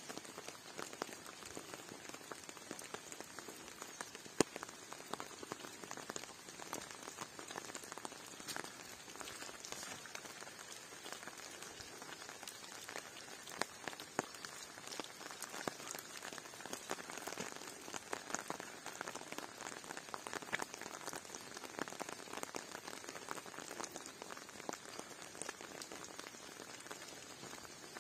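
Rain falling steadily, many separate drops ticking on a surface, with one sharper drop about four and a half seconds in.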